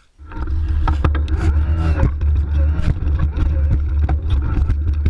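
Haibike eQ Xduro FS RX electric mountain bike riding on a trail: heavy wind rumble on the microphone, with frequent knocks and rattles over the ground and a faint wavering whine. It cuts in suddenly just after the start.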